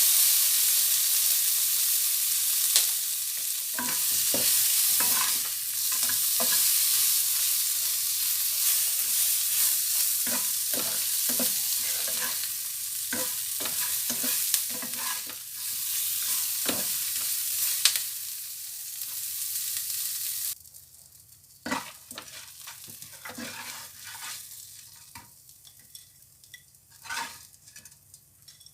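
Shrimp and garlic frying in butter in a pan, sizzling steadily while a utensil stirs and knocks against the pan. About two-thirds of the way through, the sizzle cuts off suddenly, leaving only quieter scattered knocks of the stirring.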